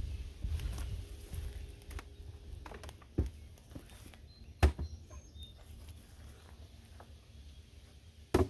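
Wooden beehive boxes being handled and taken apart. There is low rumbling handling noise at first, then a few sharp knocks, the loudest about halfway through and another near the end.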